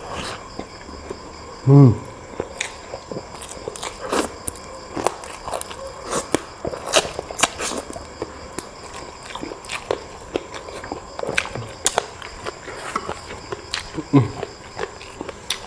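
A person chewing and eating close to the microphone: a steady run of wet mouth clicks and smacks. A short, low voiced 'mm' about two seconds in and again near the end.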